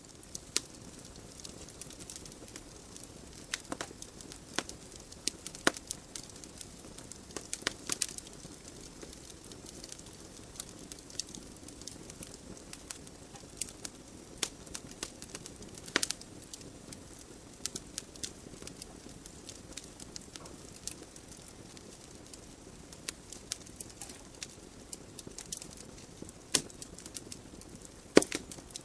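Logs burning in a wood fireplace: irregular sharp crackles and pops over a steady hiss of the flames, with one louder pop near the end.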